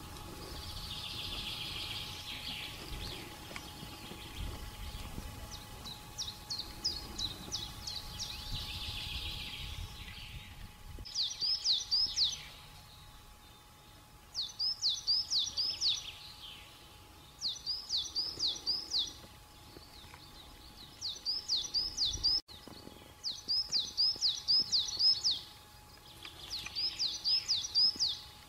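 A songbird singing outdoors, repeating a short high phrase of four or five quick notes about every three seconds from around eleven seconds in. Before that there is fainter, hazier high chirping over a low rumble.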